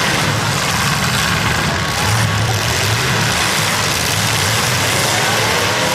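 Demolition derby car engines running, a loud, steady din of engine noise.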